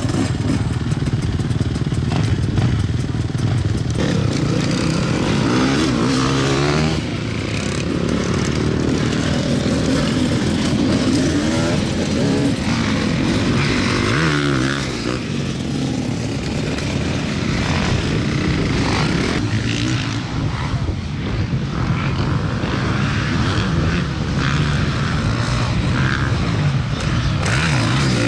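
Several motocross bikes racing, their engines revving up and down over and over, with the tones overlapping.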